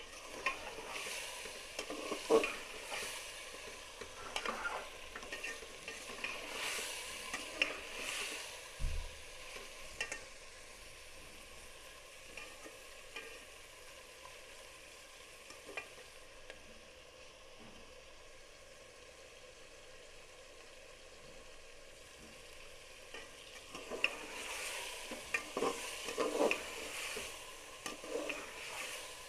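Onions, garlic and green chillies frying in oil in a cooking pot with a steady sizzle. A spoon stirs and scrapes against the pot in spells during the first ten seconds or so and again near the end.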